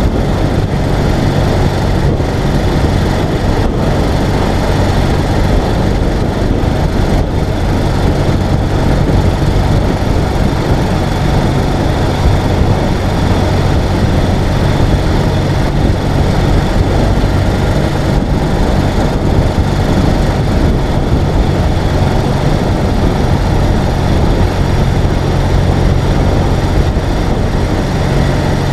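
Ural sidecar motorcycle's air-cooled flat-twin engine running steadily at a constant speed while riding, with a dense rushing noise of the ride over it.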